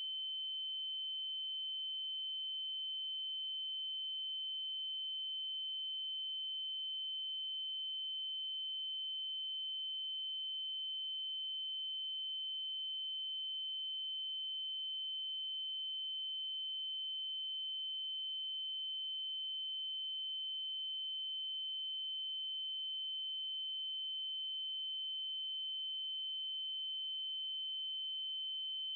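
Steady, unbroken 3072 Hz triangle-wave tone: a single high pitch held constant, with faint higher overtones.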